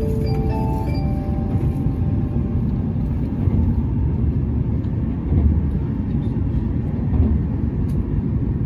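Steady low rumble of a Shinkansen train at a station platform. The last few notes of a chime-like melody die away about a second in.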